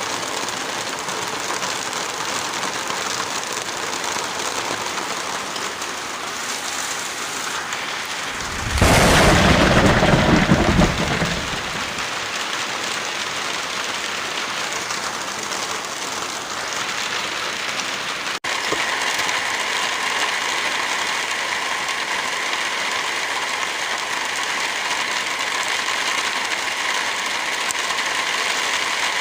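Steady heavy rain with no speech. About nine seconds in, a louder rumbling rush lasts about two seconds. Around eighteen seconds there is a sudden splice, after which the rain takes on a different, brighter hiss.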